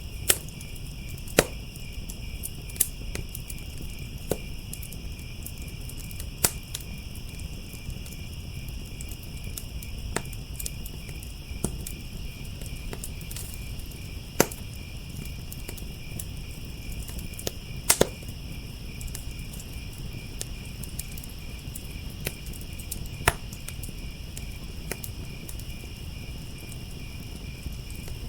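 Wood fire crackling with sharp, irregular pops, a few seconds apart and sometimes in quick pairs, over the steady high chirping of crickets.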